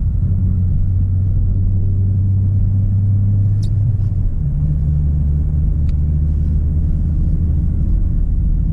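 Semi-truck's diesel engine heard from inside the cab, running as the truck pulls slowly away on a snowy road. Its low drone steps up in pitch about four seconds in as the engine picks up revs.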